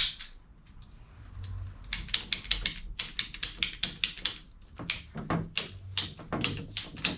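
PEX pipe cutter clicking as its handles are worked to cut through PEX tubing: a run of sharp clicks, several a second, with a short pause partway.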